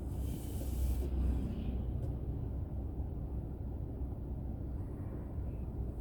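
Steady low road and engine rumble of a car driving, picked up by an onboard dashcam, with a brief hiss during the first second or so.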